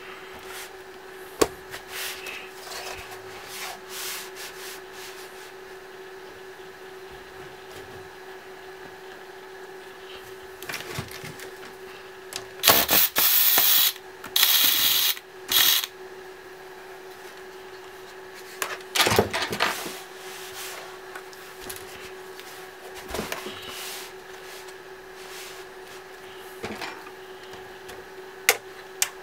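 Laptop disassembly: scattered clicks and rubbing of plastic parts and small screws being handled. About halfway through come three short runs of an electric screwdriver driving screws out of the case, with another brief run a few seconds later. A faint steady hum sits under it all.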